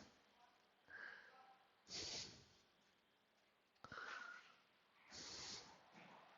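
Faint breathing close to the microphone: a few soft breaths a second or two apart, some with a slight whistle.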